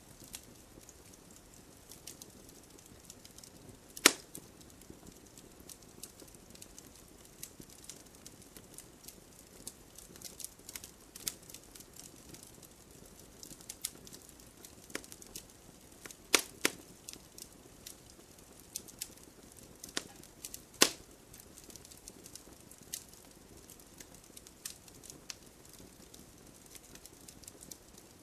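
Wood fire crackling in a fireplace: a low hiss with scattered small crackles and a few sharp, loud pops, the biggest about four seconds in, around sixteen seconds in and near twenty-one seconds in.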